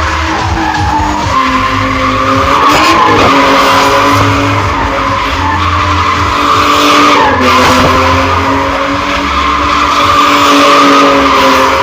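A car drifting: its engine held high in the revs with tyres screeching, the engine note dipping briefly twice.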